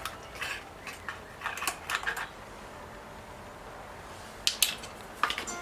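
Light clicks and taps of kitchen utensils and small spice containers being handled while ingredients are measured into flour, in two clusters with a pause in between.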